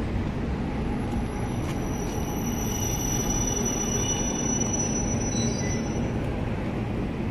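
Electric commuter train at a station platform: a steady low rumble, with a high, thin squeal of several held tones that sets in about a second in and fades out near the end.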